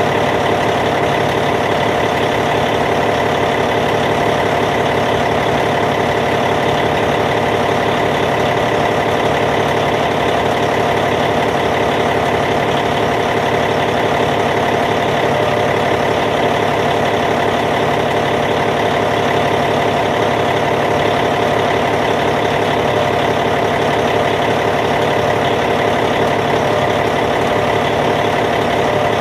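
Caterpillar C15 diesel engine in a Cat D8T bulldozer idling steadily at an even, unchanging speed.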